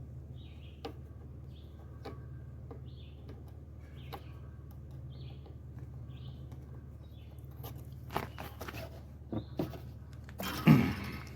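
Scattered clicks and metal clatter of hand tools and engine parts as the air filter clamp is loosened and the air filter worked off a Kawasaki FR691V engine, growing louder in the last few seconds. A bird chirps repeatedly in the background, about once every three quarters of a second.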